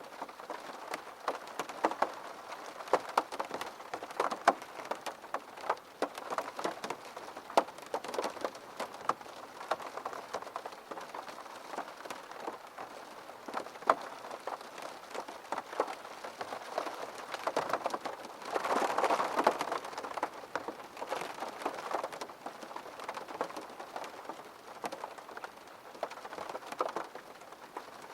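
Steady rain, with many separate drops ticking sharply on a hard surface. The rain swells heavier for a couple of seconds about two-thirds of the way through.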